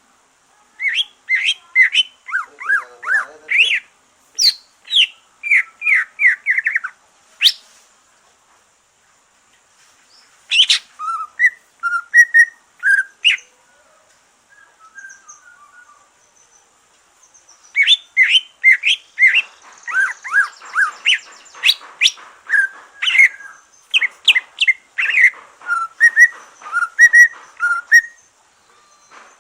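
A cucak ijo (green leafbird), just out of its moult, singing rapid runs of sharp chirps and whistles in long bursts broken by pauses of a few seconds.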